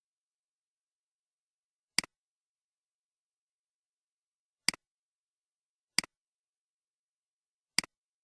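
Computer mouse button clicking four times at uneven intervals, each click a sharp press followed closely by a softer release, with silence between.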